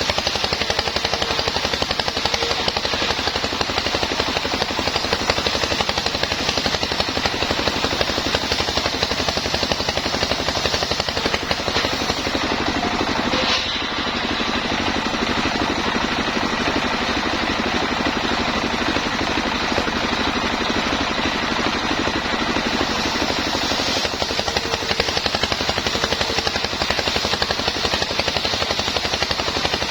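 Engine-driven homemade sawmill running steadily, with a fast even pulse. There is a brief dip about fourteen seconds in, and the high hiss is weaker for about ten seconds in the middle before it comes back.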